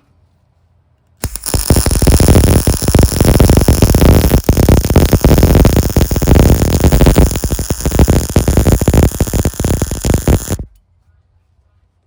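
Arc welder laying a weld, a loud continuous crackle that starts abruptly about a second in and cuts off suddenly near the end, as the arc is struck and broken.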